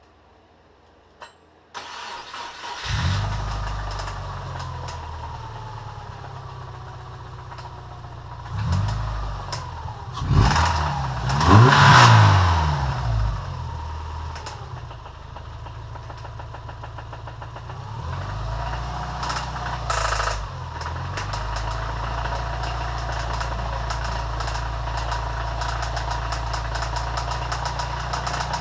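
Subaru EJ25 flat-four engine in a 2001 Forester cranked, catching and then blipped up to higher revs three times before settling into a steady run. A rapid, regular knocking rides on the running engine, which the owner puts down to a failing crankshaft bottom end.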